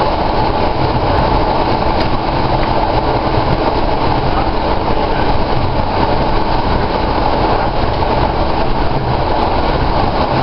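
Cabin of an SA103 diesel railbus running at speed: a steady drone of the engine with wheel-on-rail rumble and a few faint clicks.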